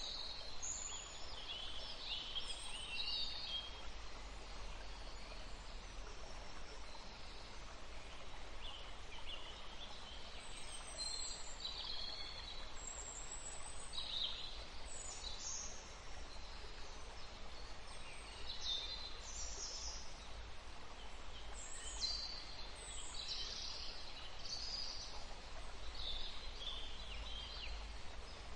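Steady rushing of a river, with songbirds chirping and trilling over it in short high calls throughout.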